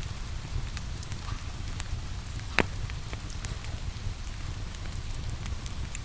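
Wood fire in a fireplace crackling with scattered small pops and one loud snap about two and a half seconds in, over a low steady rumble, mixed with a steady hiss of falling rain.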